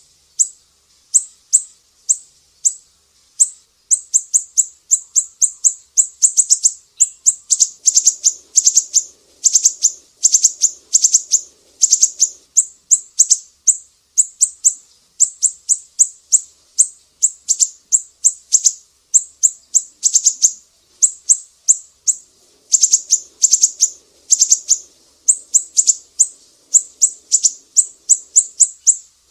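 Sumatran siri-siri songbird singing a rapid series of sharp, high chirps, several a second, in long runs broken by short pauses. A faint low buzz sits behind the song twice.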